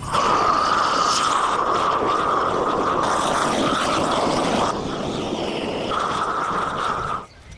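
Chainsaw running at high speed, cutting wood. Its high tone drops out for about a second partway through, then returns, and it stops suddenly near the end.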